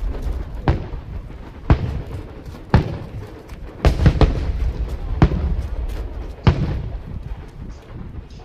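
Aerial fireworks shells bursting: a string of sharp bangs about a second apart, with a low rumble between them.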